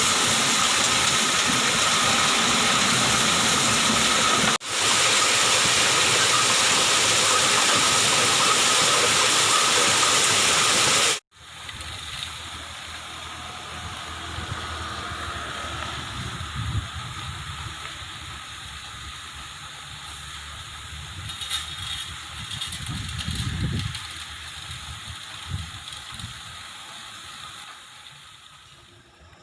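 Loud, steady rush of gushing water for about eleven seconds, which cuts off suddenly and leaves a much quieter low rumble.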